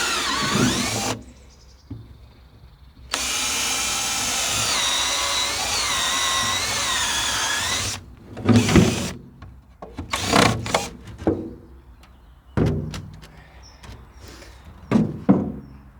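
Power drill fitted with a core drill bit running, briefly at first and then for about five seconds with its speed wavering. Several knocks and thuds follow.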